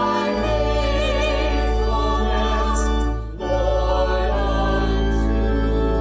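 Sacred music: a choir singing slow, sustained notes with vibrato over a steady low accompaniment, with a brief break a little over three seconds in.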